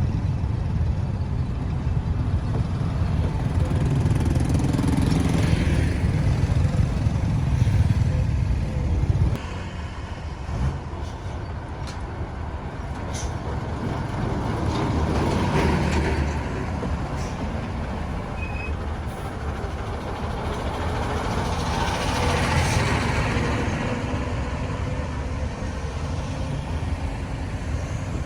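Busy road traffic: engine and tyre noise from motor vehicles, with a heavy low rumble that drops off suddenly about nine seconds in, and several vehicles swelling up and fading as they pass.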